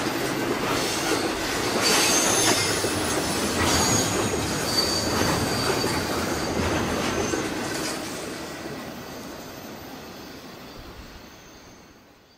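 Freight train cars rolling past, their steel wheels clicking over the rails and giving short high squeals. The sound fades over the last few seconds as the train moves away, then cuts off abruptly.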